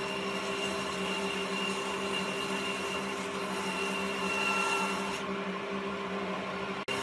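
An electric woodworking power tool running with a steady motor hum, cut off abruptly near the end.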